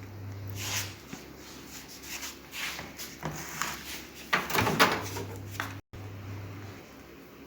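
Plastic container and microwave door being handled: a series of knocks and clatters, loudest about four to five seconds in, over a faint low hum.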